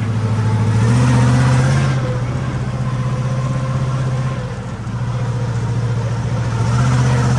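Monster ride truck's engine running, revving up about a second in, easing back, then revving up again near the end.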